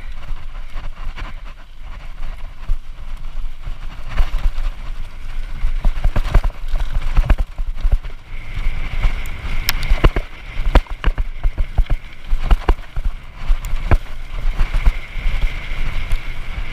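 Hardtail mountain bike clattering and knocking as it rolls down a rocky trail, with irregular sharp impacts from rocks under the wheels and wind rumbling on the microphone. A high steady tone comes in twice, about halfway through and near the end.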